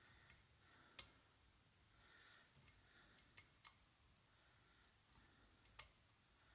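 Faint, sparse clicks and light scraping of a lock pick working the pin stack inside a rim cylinder lock during single-pin picking, with about half a dozen light clicks spread through a near-silent stretch.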